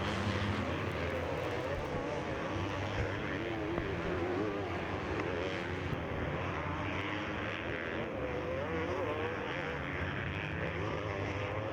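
Motocross bike engines racing on the track, their pitch rising and falling as riders rev up and back off through the course.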